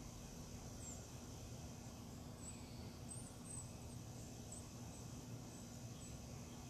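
A few faint, short, high-pitched bird chirps scattered over a steady low hum and rumble of outdoor background.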